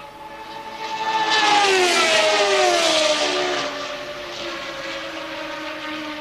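1983 Formula One car passing at speed, its engine note swelling to a peak and dropping in pitch as it goes by. A steadier engine note from another car carries on afterwards.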